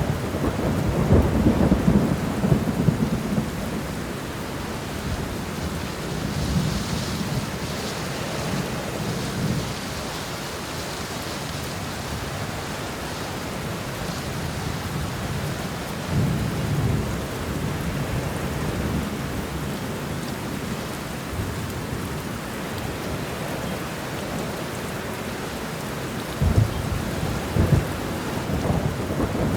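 Steady heavy rain with rolling thunder. Low rumbles swell about a second in, again around six to nine seconds and sixteen seconds, and return near the end.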